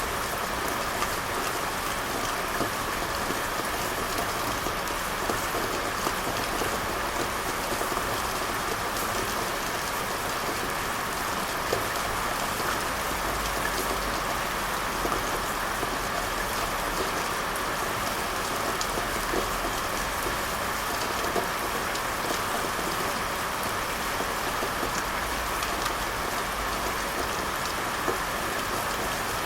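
Steady rain falling on a surface, an even hiss with scattered small drop taps.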